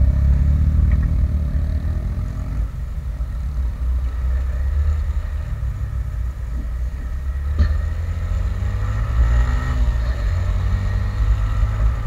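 Yamaha Sniper 150 single-cylinder four-stroke motorcycle engine running while riding, under heavy wind rumble on the helmet microphone. The engine note rises somewhat in the second half, and there is a short click about seven and a half seconds in.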